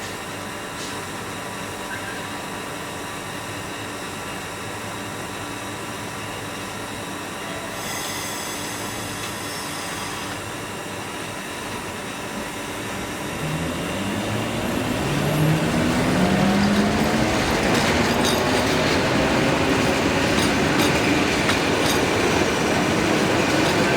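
Electric train growing louder from about 13 seconds in, with the whine of its traction motors rising steadily in pitch.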